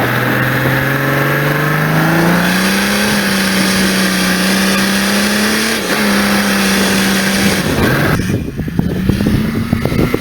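Mercedes OM603 straight-six turbo diesel in an old GMC 6x6 army truck, pulling hard as it accelerates. Its note rises for about three seconds and then holds steady, with a brief dip around six seconds in. It falls away near the end, leaving a rough rumbling noise.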